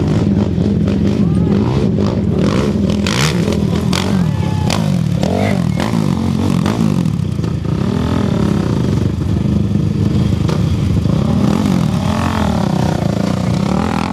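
Off-road racing motorcycle engine running loud, its pitch rising and falling several times as the throttle is worked, with a few sharp clattering knocks about three to five seconds in.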